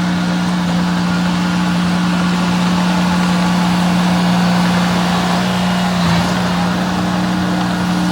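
Diesel engine of heavy earthmoving machinery running steadily, a constant-pitch drone over a broad mechanical rush.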